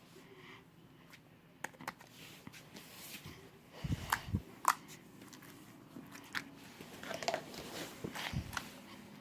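Slime being mixed and squished by hand, with scattered sticky clicks and crackles and a couple of short low thumps.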